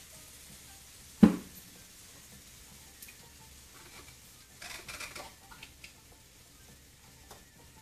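Shrimp and lobster in butter and teriyaki sauce sizzling faintly on an electric griddle. A single sharp knock about a second in, and a short clatter about five seconds in.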